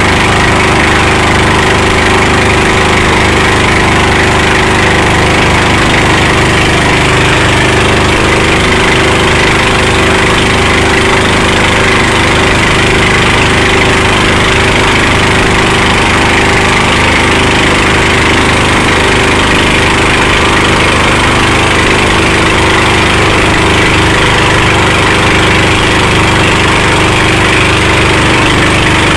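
Boat engine running steadily at a constant speed, with a hiss of water and air over it.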